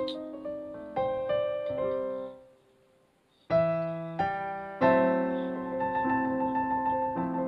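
Background piano music, notes and chords struck and left to ring. A pause of about a second comes just before the middle, then fuller chords resume.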